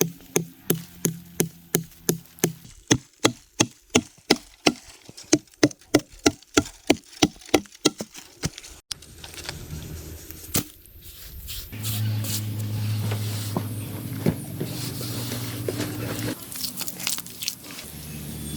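A tool striking wood in a rapid, even rhythm of about three blows a second for some eight seconds, like chopping or chiselling. It stops, and is followed by a steady low hum with a few scattered knocks.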